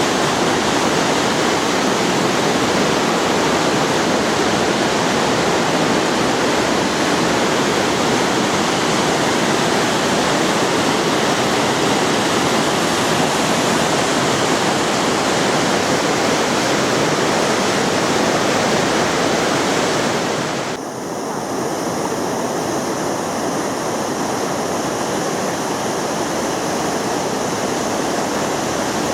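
Steady, loud rush of falling water from a waterfall. About two-thirds of the way through, the sound changes abruptly to a slightly quieter, thinner rush.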